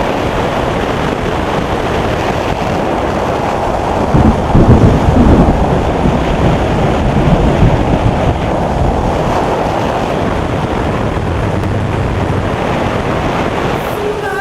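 Storm wind rushing loudly and steadily, with a louder, deeper surge about four seconds in that lasts a couple of seconds.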